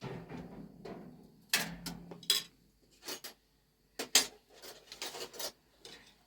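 Irregular clinks and clatters of hard objects handled against one another. The sharpest are about one and a half and four seconds in.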